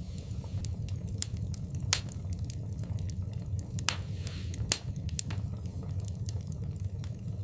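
Wood fire in a fireplace crackling, with irregular sharp pops over a steady low rumble of the flames; two louder pops come about two seconds and nearly five seconds in, with a brief hiss around four seconds in.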